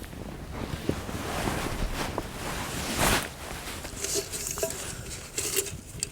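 Campfire crackling: scattered sharp pops over a steady hiss, with a louder rustle about three seconds in.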